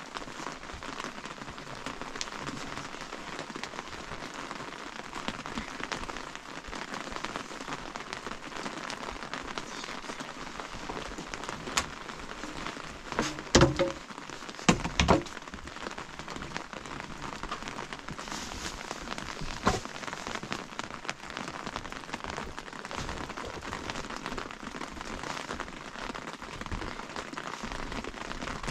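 Steady rain falling on surfaces, a continuous patter. A few short, louder knocks stand out about halfway through, and one more a few seconds later.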